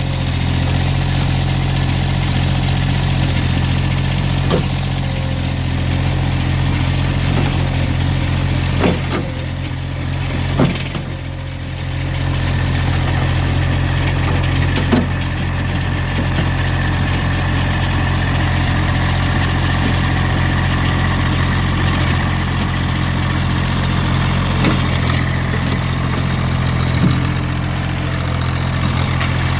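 Massey Ferguson GC1710 sub-compact tractor's three-cylinder diesel engine running steadily, with a brief dip in level about eleven seconds in and a few sharp knocks scattered through.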